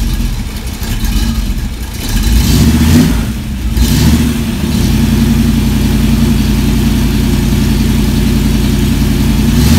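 Engine on a run stand running through freshly fitted mufflers, revved up twice about two and four seconds in, then held at a steady raised speed.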